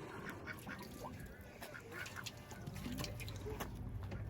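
Ducks quacking now and then, faintly, as food is thrown to them.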